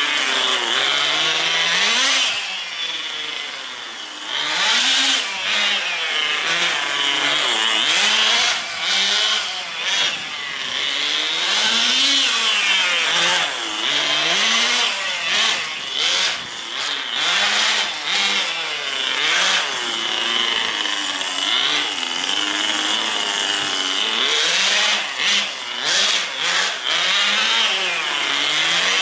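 Tamiya TGS 1/10 nitro RC car's small two-stroke glow engine running hard as the car is driven, its pitch climbing and dropping every second or two as it accelerates and slows.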